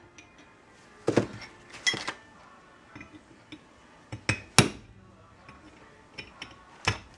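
Hammer striking a cold chisel set against a kingpin bushing in a Datsun truck steering spindle: sharp metallic strikes in irregular short clusters, the loudest a quick run of three a little past the middle, and a single strike near the end.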